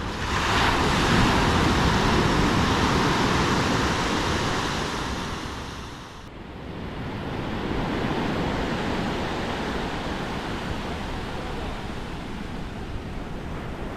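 Sea waves breaking and washing on the shore, with wind buffeting the microphone. A loud surge of surf swells just after the start and fades over about five seconds, then steadier surf follows after about six seconds.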